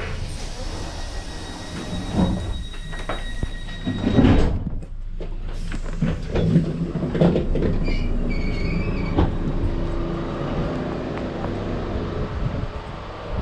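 Passenger train running on rails, with rumbling, clunks and a thin high wheel squeal held for the first few seconds; the loudest clunking comes about four seconds in.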